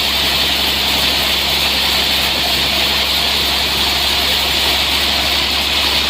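Sawmill running steadily and loudly: a constant low engine drone with an even hiss over it.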